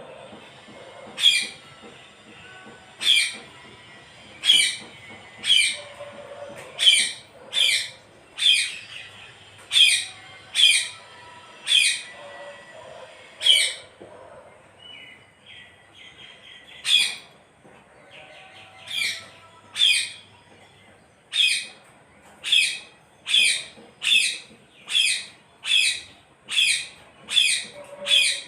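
A parrot giving short, sharp calls over and over, about one a second, with a few seconds' pause of softer chatter in the middle and the calls coming faster near the end.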